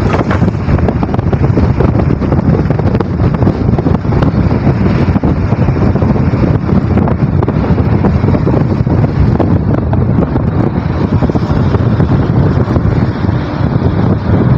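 Strong wind buffeting the microphone, a loud, steady, low rumble.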